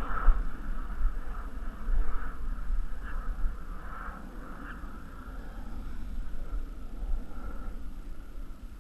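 Wind buffeting the microphone: an uneven low rumble that swells and eases, with a faint wavering higher hum over it.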